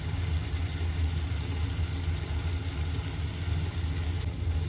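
A steady low mechanical hum under an even hiss, with no change.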